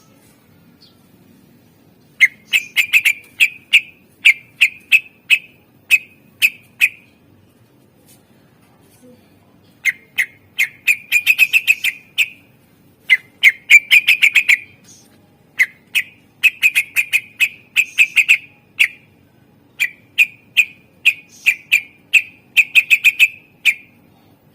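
Cucak ijo (green leafbird) singing in phrases of rapid, sharp, repeated notes, with a short pause partway through.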